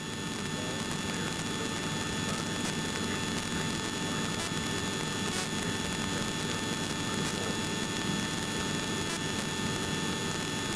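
Helicopter in flight heard from inside the cabin: a steady drone of engine and rotor noise, with thin, steady high whining tones above it.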